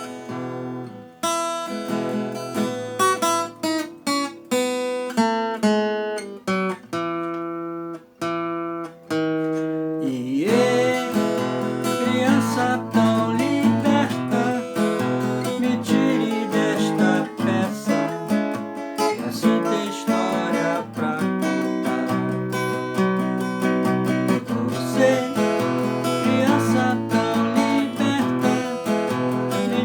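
Acoustic guitar played solo: single plucked notes picked out one after another for about the first ten seconds, then fuller strummed chords carrying on steadily.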